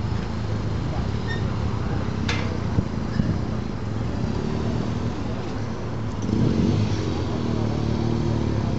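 Motorcycle engine running, with a sharp click about two seconds in; the engine gets louder and revs higher from about six seconds in.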